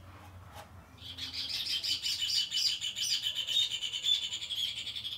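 Small birds chirping in a rapid, continuous twitter, starting about a second in and breaking off suddenly at the end.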